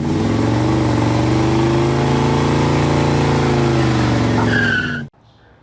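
A car engine revving, its pitch rising a little and falling back, with a brief high tyre squeal near the end. It cuts off suddenly after about five seconds, like an edited sound clip.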